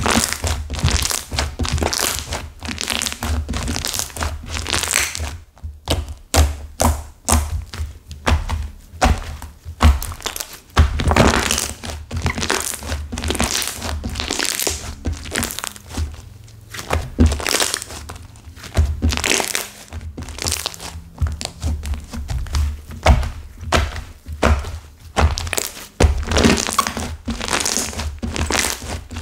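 Hands squeezing and pressing a clay slime whose clay has set hard and chip-like, giving a continuous run of crackles and crunches over dull thuds.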